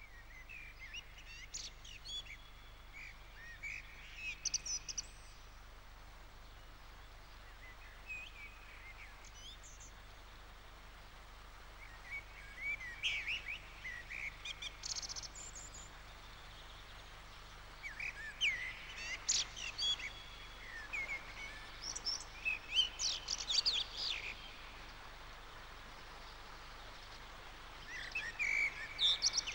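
Small birds chirping and twittering in scattered clusters of short calls, over a faint steady low hum.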